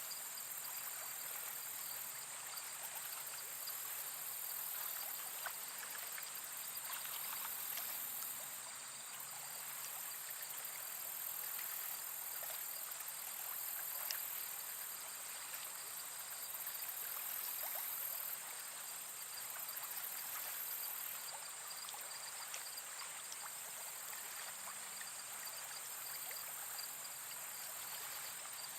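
Steady nature ambience: water trickling in a stream, with a high insect chorus that swells and fades every several seconds.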